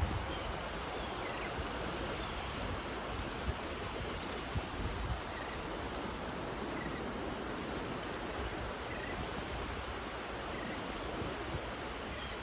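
Steady wash of sea surf on a beach, an even rushing noise, with a few faint short chirps scattered through it and a couple of soft low knocks.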